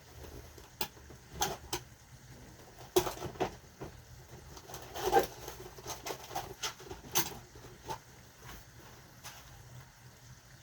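Kitchen handling noises: irregular light clicks, taps and rustles, with louder knocks about three seconds and five seconds in.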